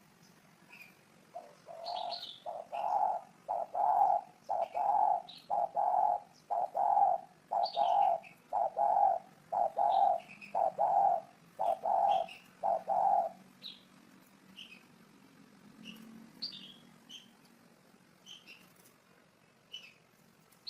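A dove cooing in a steady run of about a dozen low notes, roughly one a second, stopping a little past the middle. Small birds chirp faintly in the background throughout.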